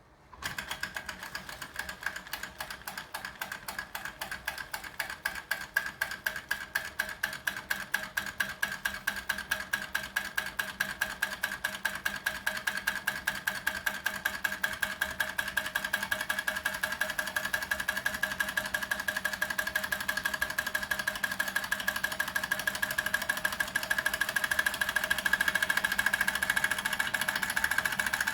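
Doll 511/3 toy live-steam engine running: a fast, even ticking of the small engine's strokes with a steady high whine over it, growing slightly louder as it goes.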